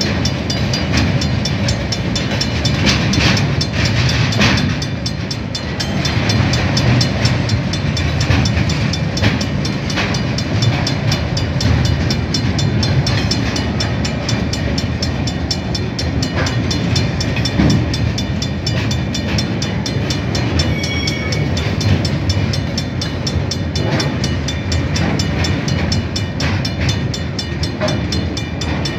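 Coal wagons of a KiwiRail freight train rolling past at a level crossing: a steady low rumble of steel wheels on the rails, with occasional sharper knocks.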